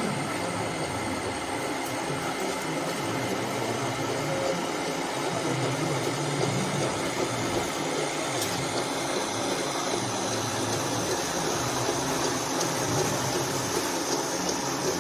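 Small electric motors and gearboxes of RC toy construction vehicles running with a steady whir.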